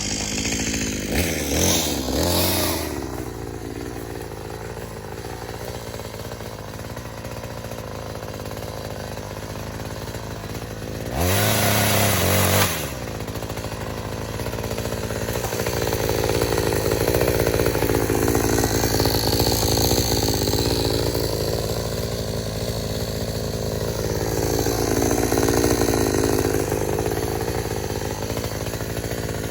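46cc two-stroke petrol chainsaw idling, revved briefly about a second in and again about eleven seconds in, then run at speed with its pitch sagging and rising repeatedly as the chain cuts into willow wood.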